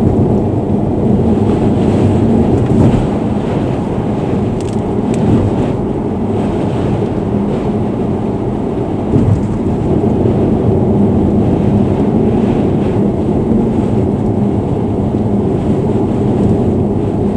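Steady low rumble of road and wind noise inside a car driving at expressway speed in strong gusty wind, picked up by the dashcam microphone. There is a brief thump about nine seconds in.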